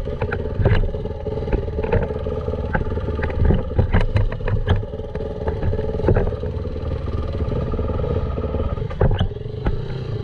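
Dirt bike engine running steadily on a trail, with frequent short knocks and rattles over the top.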